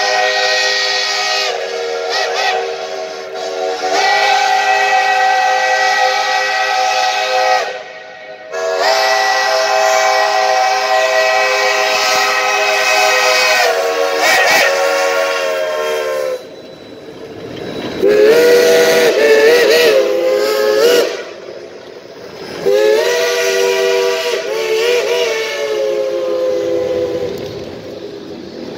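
Steam locomotive chime whistle blowing a series of long multi-note blasts, the later ones wavering up and down in pitch as the whistle is quilled.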